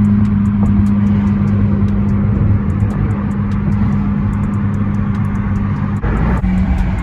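Exhaust drone of a muffler-deleted 2014 Honda Civic Si's 2.4-litre four-cylinder, a loud steady low note held at one pitch as the car moves at a steady speed, with a brief dip near the end.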